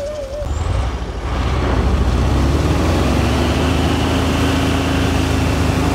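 Heavy off-road trial truck's engine working under load, the revs picking up about a second in and then held steady, with a steady whine over the engine note.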